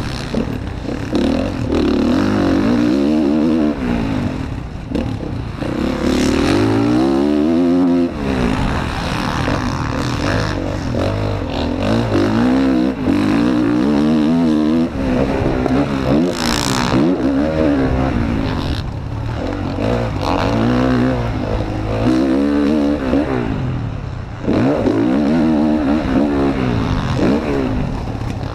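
Motocross bike engine heard close on board, revving up and falling back again and again as the rider accelerates, shifts and brakes around the track.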